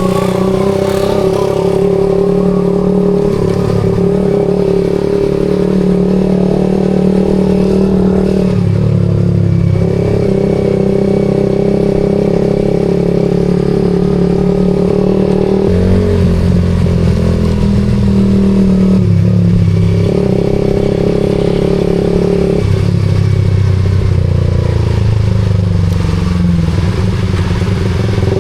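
Suzuki GSX-R150's single-cylinder engine running through a SARP aftermarket exhaust while riding, its note shifting in pitch several times with throttle or gear changes.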